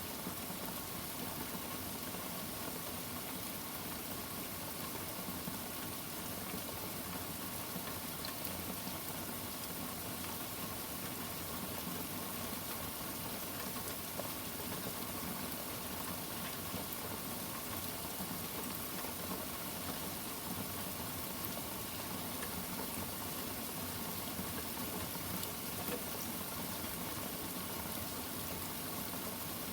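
Steady rain falling in an even hiss, with no thunderclap or rumble.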